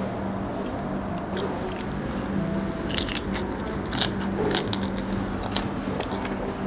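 A person chewing a mouthful of raw squid wrapped in lettuce, with crisp crunches of the leaf, several of them close together in the second half.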